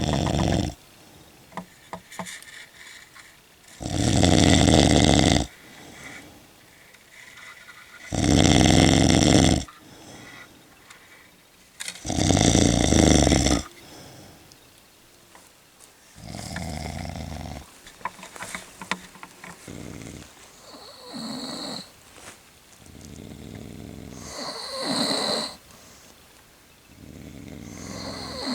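A sleeping person snoring heavily, one long rasping snore about every four seconds; the first few are loud and the later ones softer.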